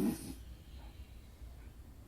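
Snoring: one snore with a wavering, buzzing pitch ends about half a second in, followed by a quiet pause with a faint steady low hum before the next snore.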